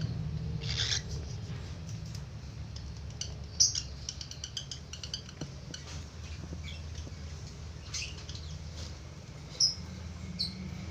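Budgerigar giving short high chirps and squeaks, with a quick run of clicks about three to five seconds in, over a low steady hum.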